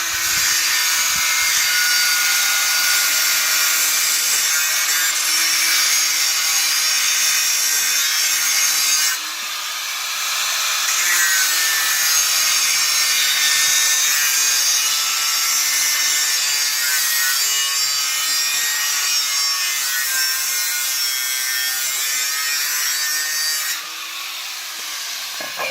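Electric power tool sawing continuously, its motor whine wavering in pitch under load. It eases off briefly about nine seconds in and again near the end.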